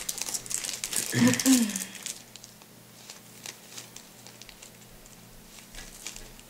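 Plastic snack wrapper crinkling and rustling as it is handled and opened, with a brief voice sound a little after one second. After about two seconds the crinkling stops, leaving only faint scattered rustles and clicks.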